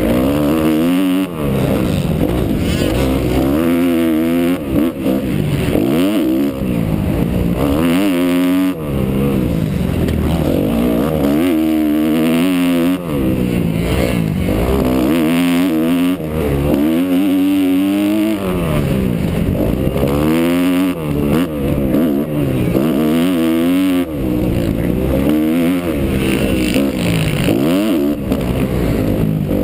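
Kawasaki KX250F four-stroke single-cylinder motocross engine revving hard and dropping back over and over, its pitch climbing and falling every second or two as the throttle is worked around the track.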